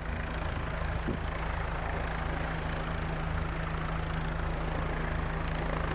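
Helicopter running close by: a steady engine hum with an even, repeating rotor beat underneath.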